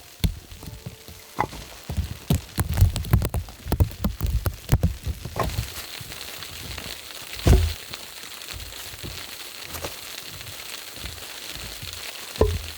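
Irregular knocks and thumps of firewood being handled, then from about five seconds in the steady hiss and scattered crackle of a burning campfire.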